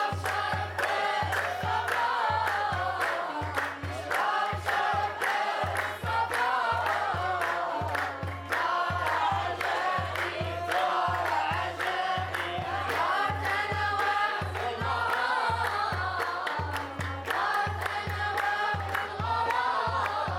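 Group of voices singing together over a steady drum beat of about two strokes a second, with sharp percussive strikes throughout.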